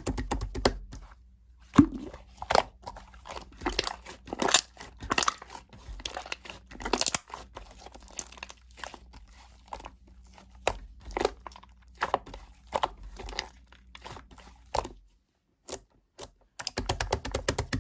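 Pink clear slime being kneaded and mixed by hand, a dense, irregular run of sticky pops, clicks and crackles. The sounds drop out for about a second and a half near the end, then resume.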